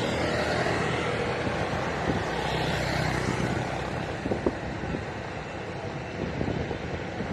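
Roadside traffic: a vehicle passes with a swell of engine and tyre noise over the first few seconds, then the traffic noise settles lower, with a few short knocks.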